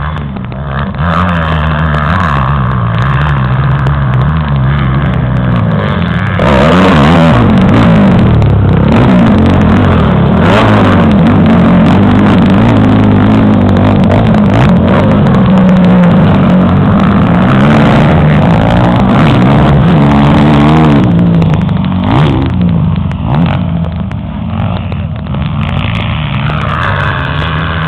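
Motocross dirt bike engines revving, the pitch rising and falling as the throttle opens and closes. It gets louder about six seconds in and drops back about twenty-one seconds in.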